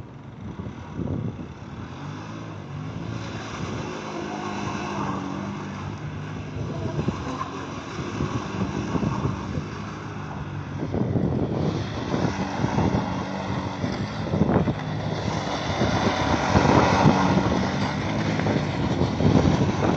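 A vehicle engine driven hard, its revs stepping up and down, with knocks and rattles over it and the sound growing louder as it goes on.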